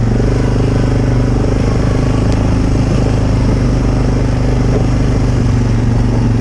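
ATV engine running at a steady, unchanging pitch.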